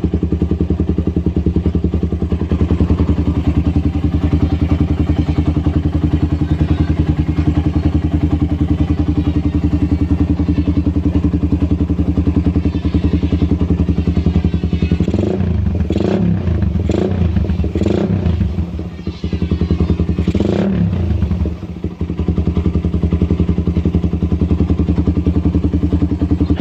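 Motorcycle running through an aftermarket DBS exhaust with an oval silencer: a steady, evenly pulsing idle with a calm, mellow note, interrupted by a few short throttle blips between about fifteen and twenty-one seconds in before settling back to idle.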